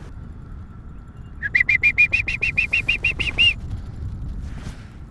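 A small bird calling: a quick run of about fifteen high chirps over two seconds, starting about a second and a half in.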